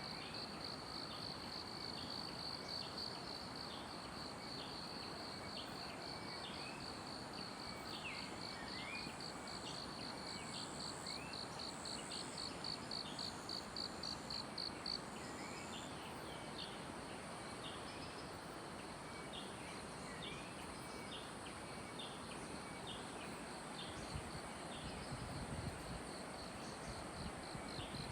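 Forest morning ambience: an insect's high, pulsing trill that stops about halfway through and starts again near the end, over short bird chirps repeated about once a second and a steady background hiss.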